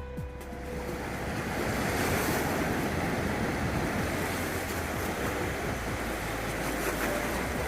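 Rushing floodwater of the typhoon-swollen Ōi River, a steady loud rush that swells over the first second or two and then holds.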